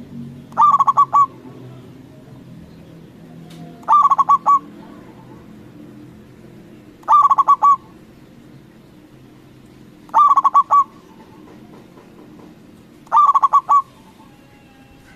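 Zebra dove (perkutut) cooing: a short phrase of quick, stuttering notes on nearly one pitch, repeated five times about every three seconds.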